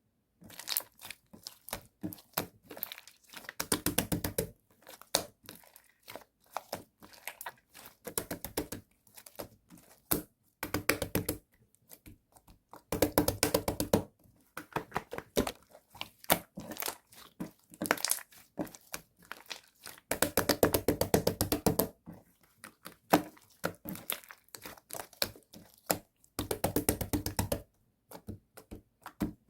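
Cookies-and-cream slime being squeezed, pressed and stretched by hand, giving dense runs of clicks and crackles in bursts with short pauses between.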